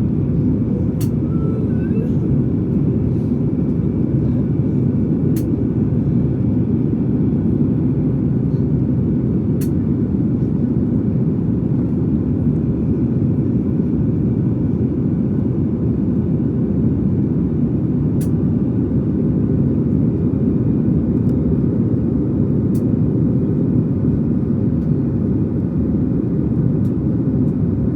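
Boeing 737 MAX cabin noise: a steady drone of the engines and airflow, heard from inside the passenger cabin in flight, with a few faint ticks from the cabin.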